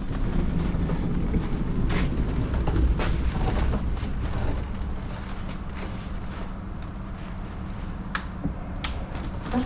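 Heavy lorry's diesel engine running steadily at low revs, with a few sharp knocks.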